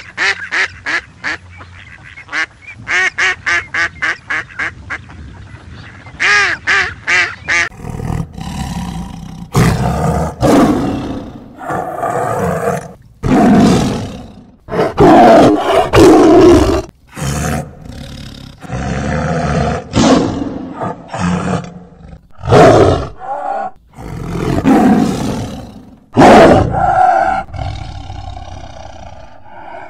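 A mallard duck quacking in quick runs of short calls, then from about eight seconds in a tiger roaring and growling in a series of loud calls with short gaps between them.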